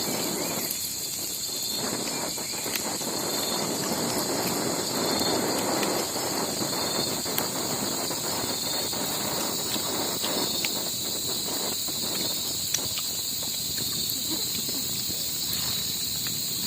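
A steady, high, continuous insect chorus. A rushing noise swells under it about four to six seconds in, with scattered small clicks.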